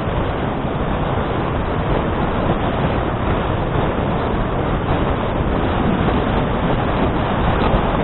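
Steady rush of wind and rolling road noise picked up by an action camera's microphone on a moving bicycle.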